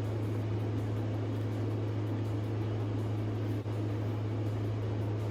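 A steady low hum over a faint even hiss, with a brief dip in level about three and a half seconds in.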